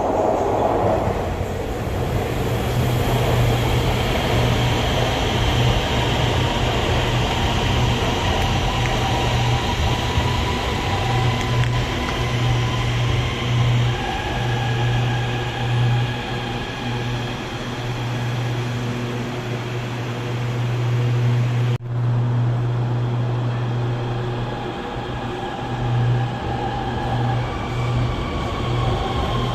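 Guangzhou Metro Line 21 train running through the station: a steady low hum with motor whine tones that come in and shift in pitch. A brief sudden dip about two-thirds of the way through.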